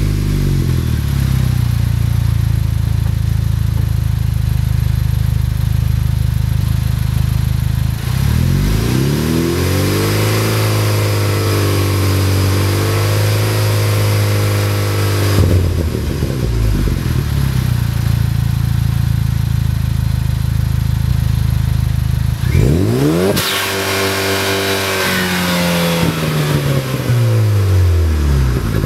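Chevrolet Cobalt SS Turbo's turbocharged four-cylinder engine running through a 3-inch stainless cat-back exhaust with a slash-cut tip, idling just after a start. About a third of the way in it is revved up and held at higher rpm for several seconds before dropping back to idle; near the end a quick rev climbs sharply and falls slowly back down.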